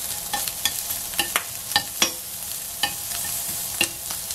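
Shrimp sizzling in oil in a frying pan, with about ten irregular sharp clicks of metal tongs tapping and scraping the pan as the shrimp are turned.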